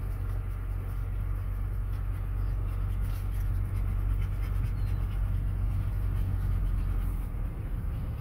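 Steady low rumble of a truck running, heard from inside the cab.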